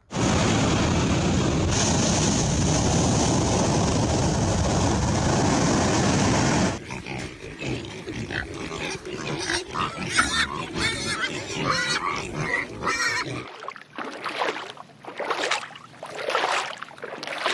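Pigs grunting and squealing. A dense, steady din fills the first several seconds, then breaks into looser, more separate calls.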